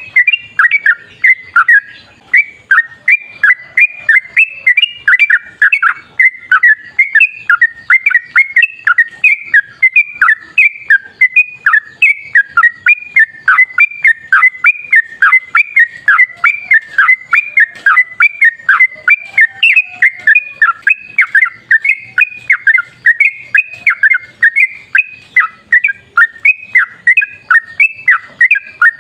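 Yellow-vented bulbul (trucukan) singing a long, unbroken run of rapid, bubbly whistled notes, about three to four a second without a pause. It is the kind of long 'ropel' song played as a lure to get other trucukan to answer.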